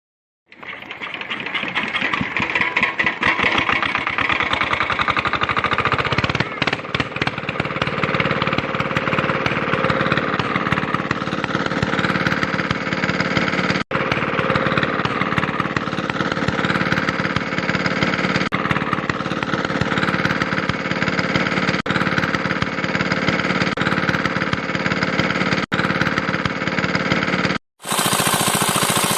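A miniature diesel engine running steadily with a fast, hard knocking chatter, starting about half a second in. It drops out for an instant a few times, and near the end there is a short gap, after which it sounds brighter.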